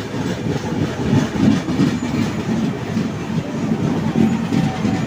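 Passenger train coaches running past on the adjacent track, heard from inside a MEMU coach: a loud, continuous, uneven rumble of wheels on rails.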